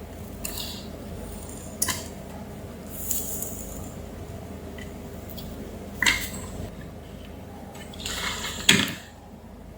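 Scattered handling noises: a few separate short clicks and clinks with some rustling, the loudest near the end, over a steady low hum.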